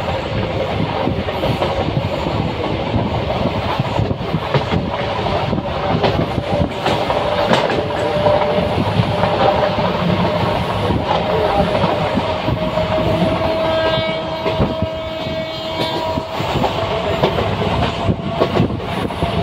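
Passenger train running along the track, heard from on board: a steady rumble of wheels with a rhythmic clickety-clack over the rail joints. A higher held tone comes in for a couple of seconds about three quarters of the way through.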